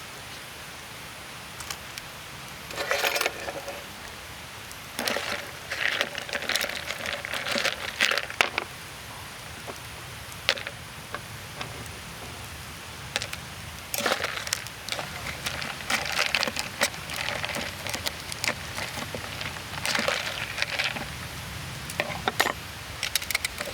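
Intermittent rustling, crinkling and sharp clicks of things being handled, in several bursts of a second or two with short pauses between.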